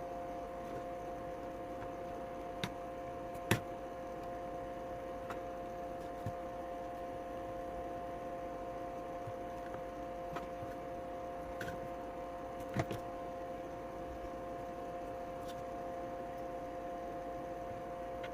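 Steady electrical hum with a few scattered small clicks and taps, from small parts and tools being handled while wiring a circuit board.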